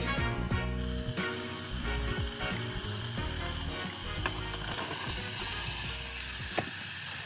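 Food sizzling steadily in a hot pan, a high hiss that sets in about a second in, with background music playing over it.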